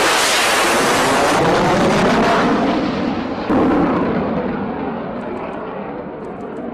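Loud jet fighter engine noise, a dense rumbling roar. It jumps suddenly in level about three and a half seconds in, then slowly fades.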